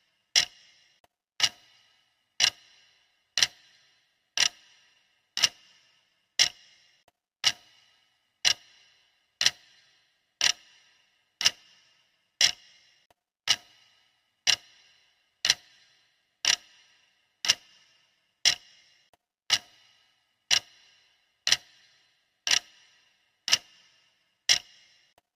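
Clock-style ticking of a countdown timer, one sharp tick a second at a perfectly even beat, each tick with a brief high ring.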